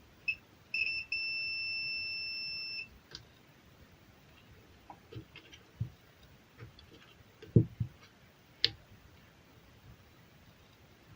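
Multimeter continuity tester beeping: two short beeps, then one steady high beep of about two seconds as the probes make contact. A steady tone like this means the part under test conducts. Light clicks and knocks from handling the probes and parts follow.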